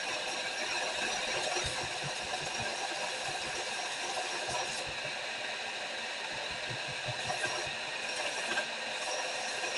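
Electric grinder running steadily as the face of a round punch is dressed on it, with scattered faint knocks.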